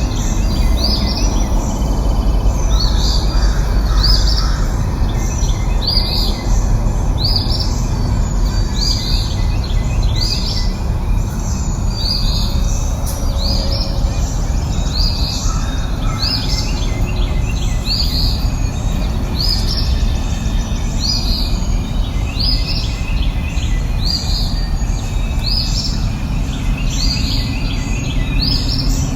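Birds chirping, short high notes repeating roughly once a second, over a steady low rushing background noise.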